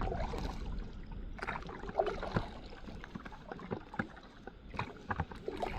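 Kayak paddle strokes dipping into lake water, with irregular splashes and drips.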